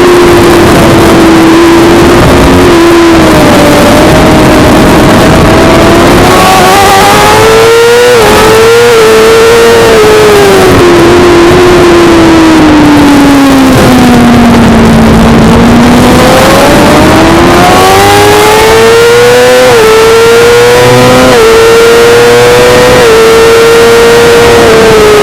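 Suzuki GSX-R600 inline-four engine being ridden hard on track. The pitch drops away for a long stretch under braking, then climbs again with several quick upshifts, each a short drop in pitch, near the end.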